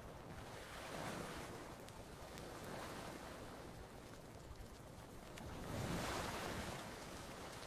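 Gentle ocean waves washing onto a beach, swelling and fading three times, the largest about six seconds in, with a few faint campfire crackles.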